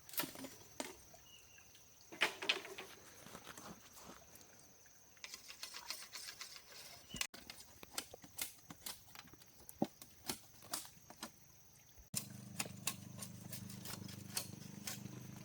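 Irregular sharp taps and knocks of bamboo being handled and worked by hand, in scattered clusters. A steady low hum joins them for the last few seconds.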